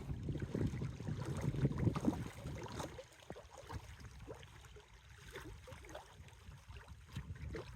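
Wind rumbling on the microphone by the water, dropping off about three seconds in and leaving quieter lapping water with scattered small knocks.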